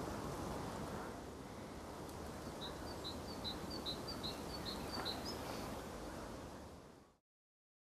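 Outdoor ambience with a steady low background noise; about two and a half seconds in, a small songbird calls a quick series of about eight short, high chirps, evenly spaced over some three seconds, the last one higher. The sound fades out near the end.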